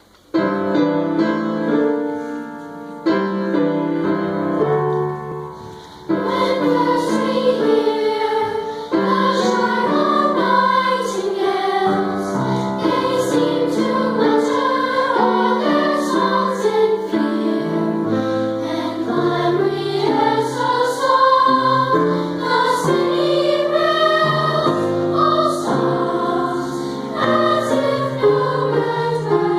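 Choir singing a choral piece with piano accompaniment. The piano plays alone for about the first six seconds, its notes fading, before the voices enter.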